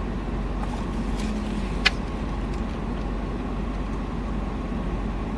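Car engine running with a steady low rumble, heard from inside the cabin, with one sharp click about two seconds in.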